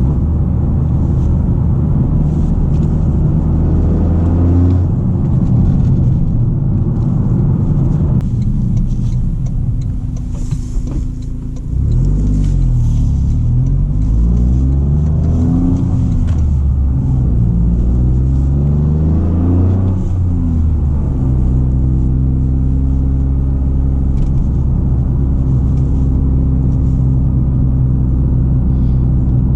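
Toyota GR Corolla's turbocharged 1.6-litre three-cylinder through an FI Exhaust cat-back, heard from inside the cabin with the exhaust valves closed. The engine drones steadily, drops off about eight seconds in, and from about twelve seconds rises and falls in pitch several times under throttle before settling back to a steady drone.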